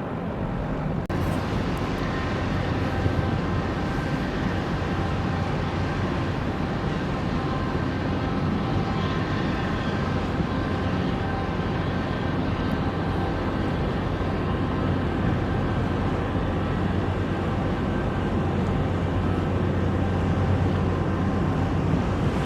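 Steady mechanical drone of a Panamax container ship's engines and machinery under way, a low hum with several held tones over a noisy rumble.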